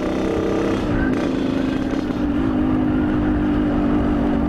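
Yamaha RX-King's two-stroke single-cylinder engine running while riding, its pitch dropping about a second in and then holding steady.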